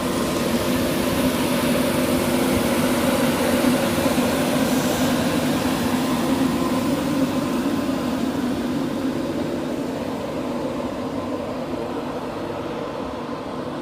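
Passenger train running at the station platform with a steady rumble and a low hum, growing fainter over the last few seconds as it pulls away.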